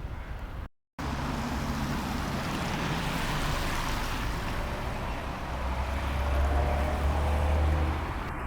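Street traffic noise: a steady wash of road noise, with a vehicle's low engine rumble swelling in the second half and fading near the end. The sound cuts out completely for a moment just before one second in.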